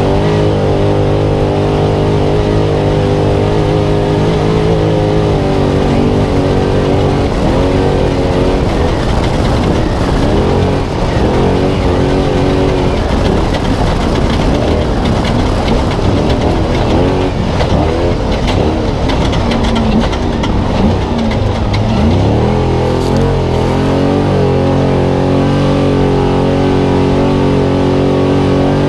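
Spec Trophy Truck's V8 engine heard onboard under race load. It holds a steady pitch at first, then rises and falls again and again with the throttle from about seven seconds in, and settles back to a steady pitch about twenty-two seconds in.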